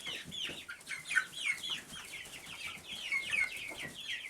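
A flock of chickens calling while they feed, many short high-pitched calls overlapping, most of them falling in pitch.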